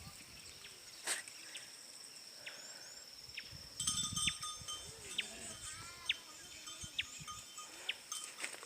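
Faint calls of farm animals, mostly between about four and six and a half seconds in. A steady high-pitched whine runs underneath, with scattered short chirps and clicks.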